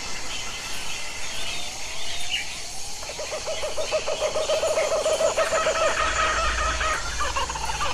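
Birds calling: after a couple of short rising calls, one bird gives a long, low trilled call held at one pitch for about four seconds, with a fainter higher trill and scattered chirps behind it.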